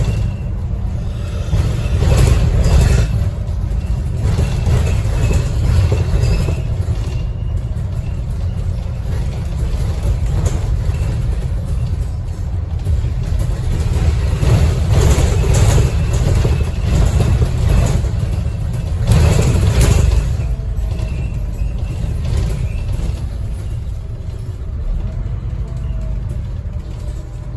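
Interior sound of a Scania N230UD double-decker bus under way: a steady low rumble of the diesel engine and road noise, with louder surges of rattling a few times.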